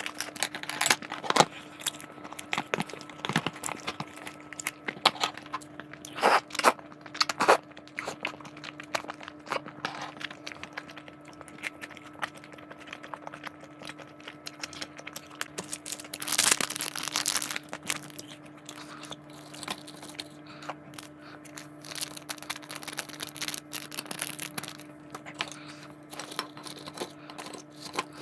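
Plastic food packaging being handled and torn open: crinkling and rustling with many short clicks and taps, and a longer tearing rustle a little past the middle. A steady low hum runs underneath.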